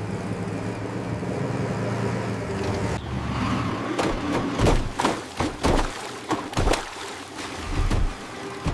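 A heavy vehicle's engine runs steadily. From about four seconds in, a string of sharp, irregular knocks or thuds follows, roughly eight of them.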